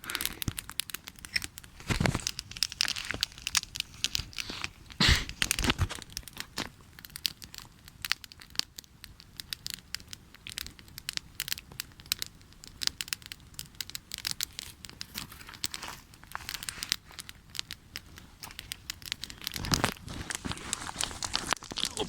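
Wood campfire crackling, with a steady patter of small snaps and a few louder pops about two, five and twenty seconds in.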